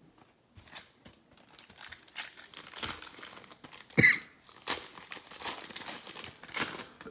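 Crinkling and tearing of a trading-card pack wrapper as a pack of Donruss football cards is opened, with irregular crackles and several sharper rips.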